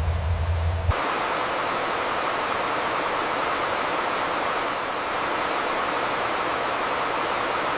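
A low, steady rumble that cuts off abruptly about a second in, giving way to a steady, even rushing hiss.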